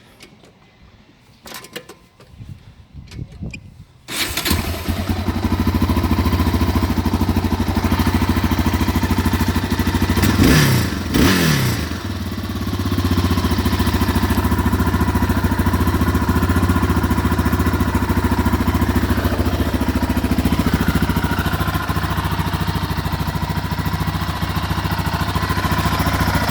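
2003 Yamaha Raptor 660R quad's single-cylinder four-stroke engine on its stock exhaust: a few clicks, then the engine starts about four seconds in and settles into a steady idle. Around ten seconds in the throttle is blipped twice, the pitch rising and falling quickly, before it drops back to idle.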